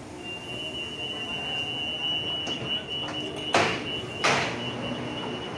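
Passenger train coaches rolling slowly past along the platform: a low rumble with a thin, steady high whine. Two short, loud hissing bursts come just past halfway.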